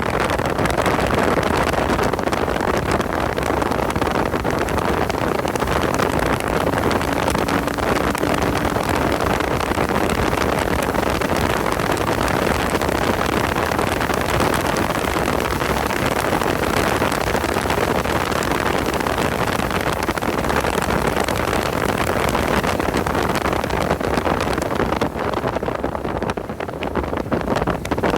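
Car driven hard on a race circuit: the engine runs under load, mixed with heavy wind noise on the microphone. It eases briefly near the end.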